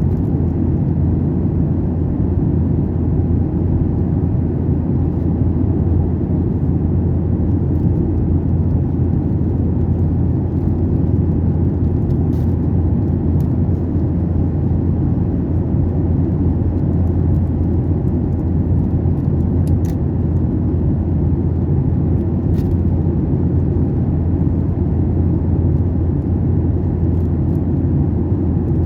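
Steady low drone of an airliner in flight, heard inside the cabin: engine and airflow noise that never changes. A few faint ticks sound over it.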